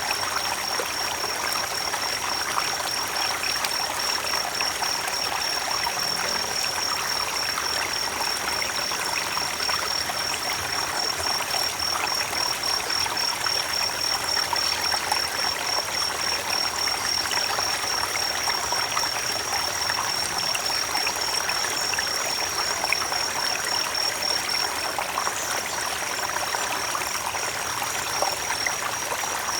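Creek water running and trickling steadily over stones, with a thin, steady high-pitched tone above it.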